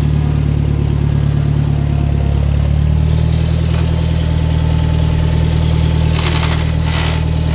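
Small farm tractor's engine running steadily, its note shifting slightly about three seconds in. Near the end come two short rasping noises as the tractor jerks: its transmission jumps, which the owner says it sometimes does.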